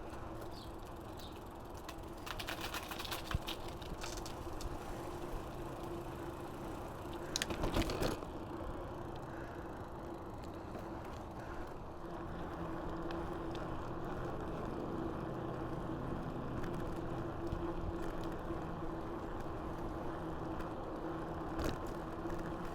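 Mountain bike riding along a path: steady tyre noise with a low hum, and the bike rattling and clicking, with louder clatters about three seconds and eight seconds in.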